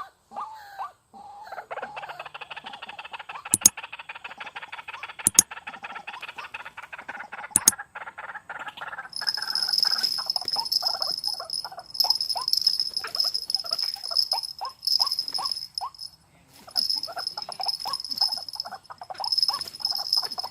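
White-breasted waterhen calling, a dense run of rapid harsh calls followed by shorter repeated calls, with three sharp clicks in the first half. A steady high-pitched whine starts about nine seconds in, stopping and starting.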